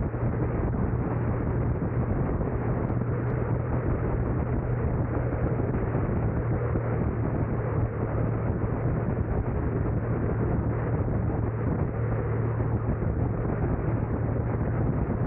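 Steady road and wind noise from a moving car, with a constant low hum underneath and no distinct events.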